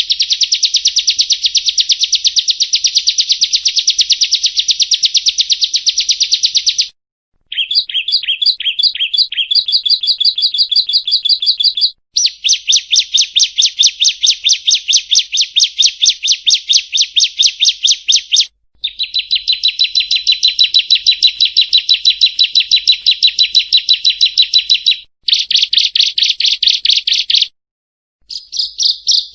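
Prinia song: long runs of rapid, evenly repeated high chirping notes lasting several seconds each, broken by short gaps, with a slower, more spaced run of notes about eight seconds in.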